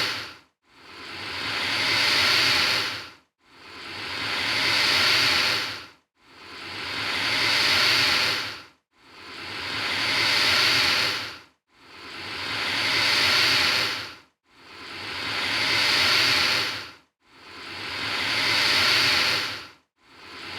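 Alligator hissing over and over at an even pace, about every three seconds: each breathy hiss swells for about two seconds and then cuts off quickly.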